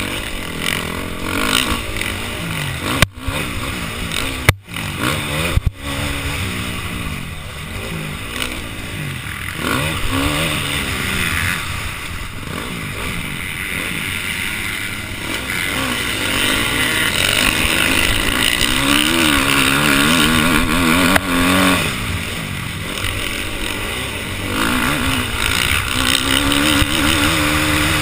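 Motocross dirt bike engine revving up and down through gear changes as it is ridden around the track, with wind noise on a helmet-mounted camera. A few sharp knocks come about three to six seconds in.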